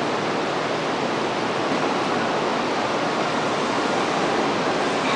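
A steady, even rushing noise with no clear tones or rhythm.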